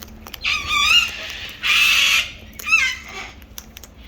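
Parrots calling at close range: a wavering squawk, then a harsh screech, then a short falling squawk.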